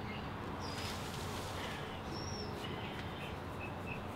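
Small birds chirping over a steady outdoor background hum: a few short whistled notes, then a quick run of chirps near the end.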